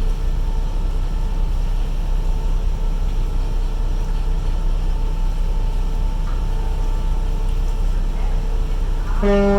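Steady low rumble of ferries' engines with a faint steady hum, then a ferry's horn starts loudly a little before the end.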